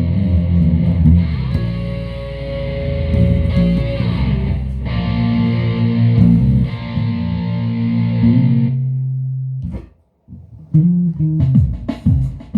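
Guitar music: held chords ring on until just under nine seconds in and fade out, then after a short silence separate plucked notes start up again.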